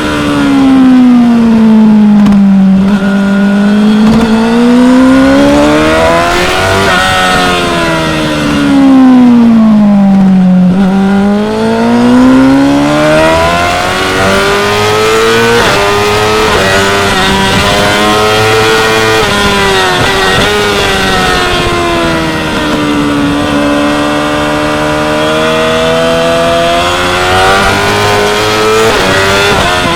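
2016 Yamaha R6's 599 cc inline-four sport-bike engine at racing revs, its pitch falling and climbing again and again: dropping off under braking into corners and rising hard on acceleration out of them. The revs fall through about the first three seconds, climb to about seven, fall again to about ten and a half, then stay higher and steadier with smaller dips and rises later on.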